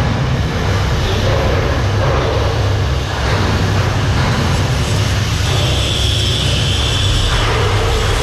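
Loud, steady low rumble of a ship's engine-room machinery running, with a faint high whine near the end.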